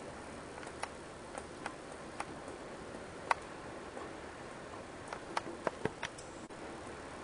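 Rain heard from inside a house: a steady hiss with irregular sharp taps of drops striking a hard surface, the loudest about three seconds in and a quick run of taps around five to six seconds in.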